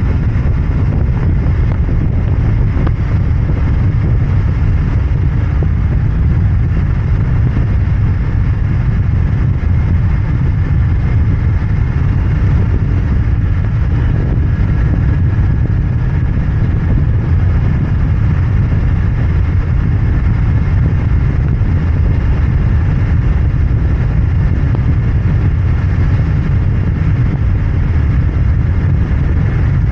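Royal Enfield Interceptor 650's parallel-twin engine and exhaust running steadily on the move, with a low, even engine note and no marked revving.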